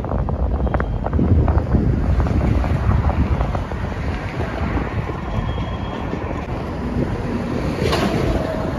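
Freight train's covered hoppers and tank cars rolling past close below, steel wheels clicking over the rails for the first few seconds, then a steadier rumble.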